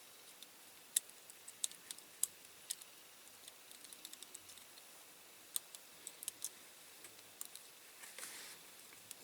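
Faint, irregular small clicks and taps of plastic and diecast metal model-car parts being handled and pushed into place as the interior of a toy car is fitted, with a short scraping rustle near the end.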